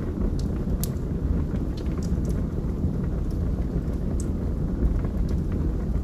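Wood fire burning in a fireplace: a steady low rumble of the flames with scattered crackles and pops from the logs, the sharpest about a second in.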